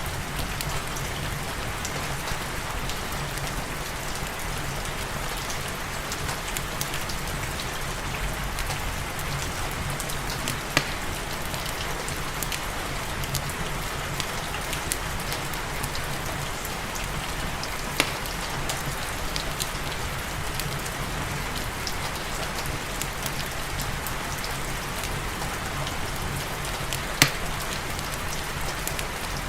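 Steady rain falling, an even hiss with many small drop-like clicks, mixed with a fireplace crackling. Three louder sharp cracks stand out, about a third, two thirds and nine tenths of the way through.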